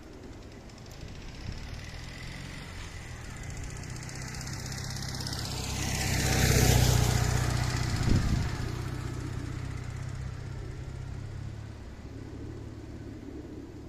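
Ural motorcycle's flat-twin engine passing by. It grows louder for about seven seconds, with a high whine falling in pitch as it nears, then fades away. There is a short sharp knock just after it goes past.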